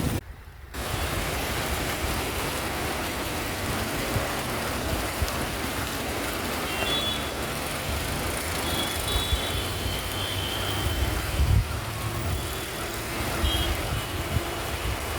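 Busy road traffic in the rain: a steady wash of engines and tyre hiss from passing vehicles, with a few short, high horn beeps.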